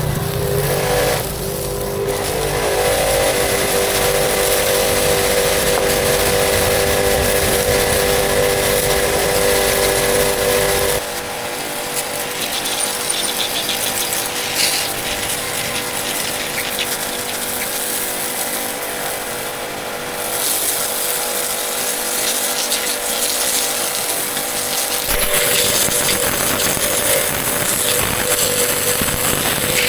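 Honda Dream motorcycle engine running, its sound changing about eleven seconds in and again near the end.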